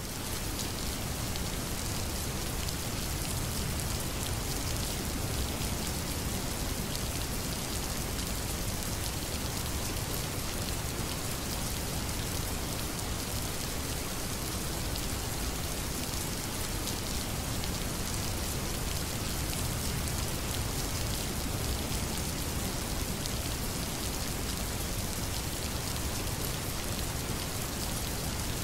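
Steady rain, an even hiss of falling rain without a break.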